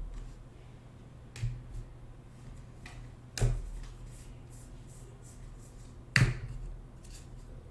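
Trading cards and packs being handled on a table: three sharp snapping clicks with a few lighter ticks between them.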